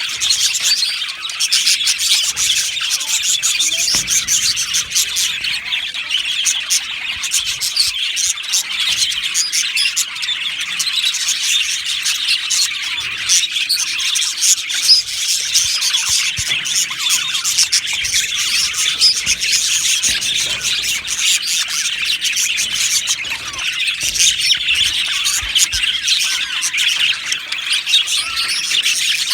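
A colony of budgerigars chattering, warbling and squawking together: a dense, continuous mass of overlapping high calls from many birds at once.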